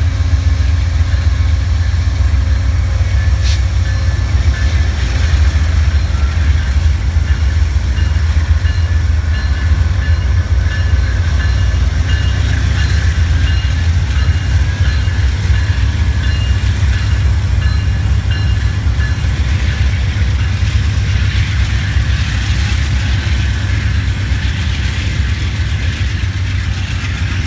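Amtrak passenger train rolling by on the rails, with a steady low rumble and thin high tones from the wheels over it. There is one sharp click a few seconds in.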